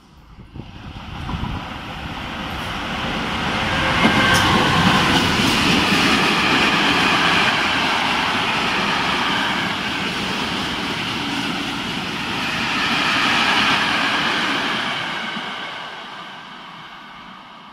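Freight train passing through at speed, its wagons rumbling and rattling on the track. The sound builds as the train arrives, holds loud while the wagons go by, and fades as the tail moves away.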